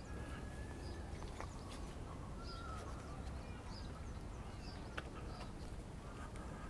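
Birds chirping in short scattered calls over a steady low city rumble, with a few sharp ticks, the clearest about five seconds in.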